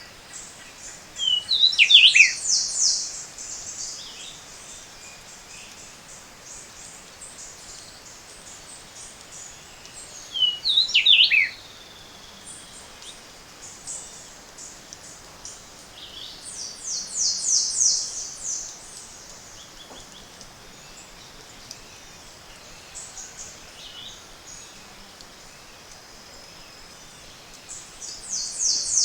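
Morning chorus of tropical forest birds. A high, rapid trill comes three times, a sharp whistled phrase jumping up and down in pitch twice, with scattered faint chips and notes from other birds over a steady low hiss.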